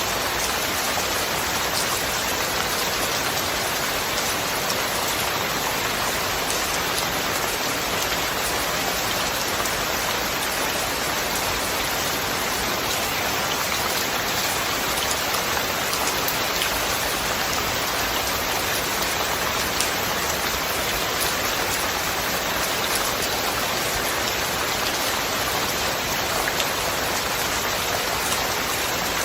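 Steady rain: an even hiss with individual drops ticking here and there.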